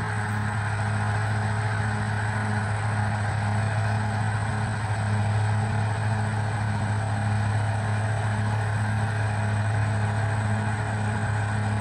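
Bulldozer's diesel engine running steadily: a continuous low drone with a regular pulsing in it.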